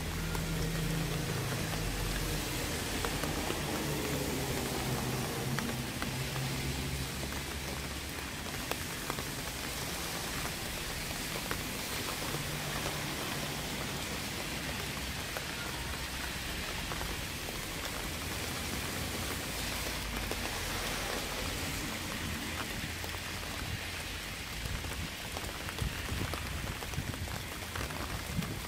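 Steady rain falling, with individual drops ticking now and then. A low drone sits under it during the first several seconds.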